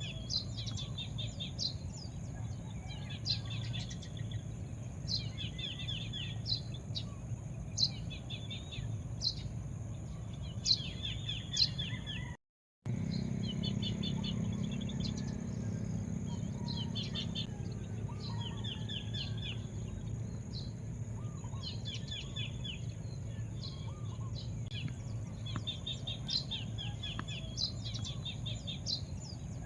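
Birds chirping: short clusters of high, quick notes repeating every second or two over a steady low rumble of background noise. The sound cuts out completely for a moment about twelve seconds in.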